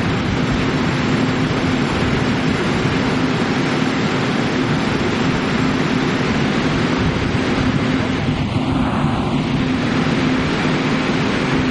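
Steady hum and rumble of a Chu-Kuang express train standing at the platform, running evenly at one pitch.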